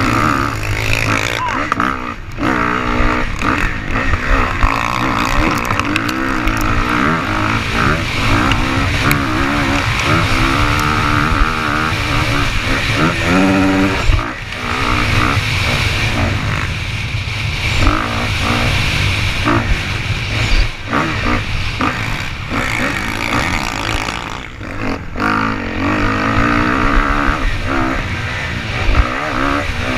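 Dirt bike engines running and revving, their pitch rising and falling with the throttle over a steady rumble.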